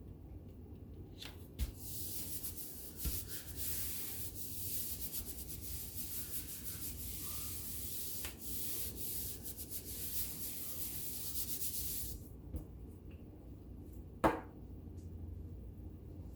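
Paper being rubbed and smoothed flat by hand, a steady scratchy rustling for about ten seconds that stops abruptly, followed by a single sharp tap near the end.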